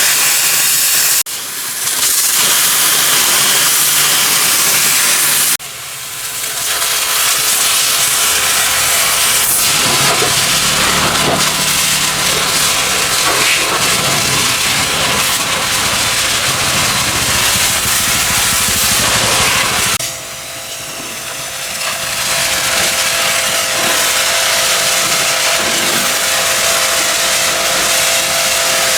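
High-pressure washer spraying water onto a car: a loud, steady hiss over the hum of the pump. The spray briefly drops out and starts again about a second in, around six seconds, and near twenty seconds.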